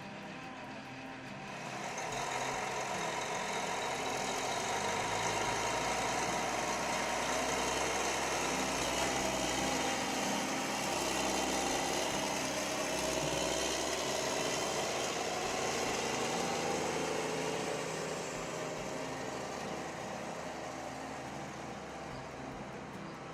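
Case IH STX480 tractor's diesel engine running steadily. It grows louder about two seconds in and eases off again near the end.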